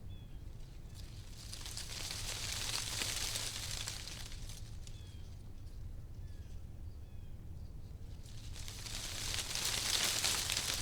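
Wind blowing through tree leaves, the rustling swelling up twice in gusts over a steady low rumble.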